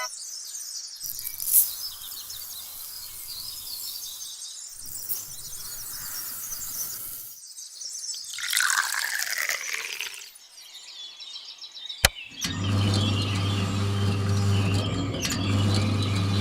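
Birds chirping over outdoor background noise, then a falling whistle-like glide about halfway through, a sharp click, and a steady low motor hum that runs through the last few seconds.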